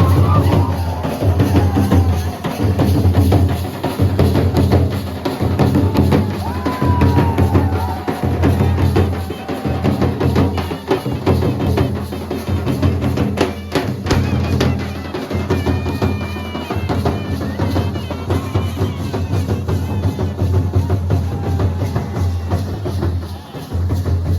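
Music driven by a heavy, deep drumbeat repeating about once a second, with lighter percussion over it.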